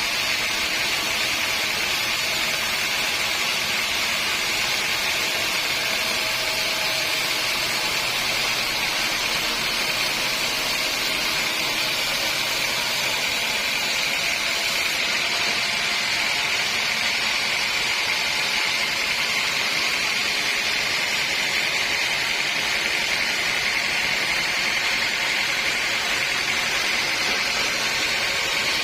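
Sawmill saw running steadily, a continuous high hiss with a faint whine underneath.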